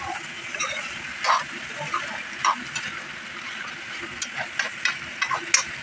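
Meat, potato pieces and spices sizzling in hot oil in a kadai, with a spoon stirring and scraping against the pan in short sharp strokes now and then.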